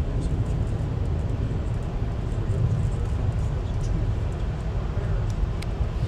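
Steady low rumble of a moving VIA Rail passenger train heard from on board, with a few faint ticks over it.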